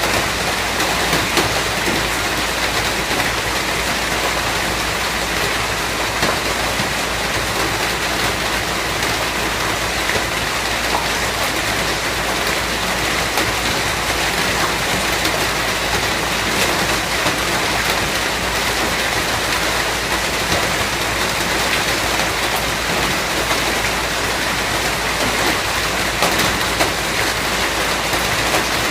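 Steady heavy rain falling on a surface, a dense even hiss with many fine drop ticks and no pauses.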